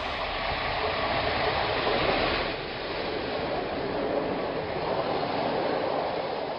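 Steady, muffled rushing noise of a moving train, with the high end cut off.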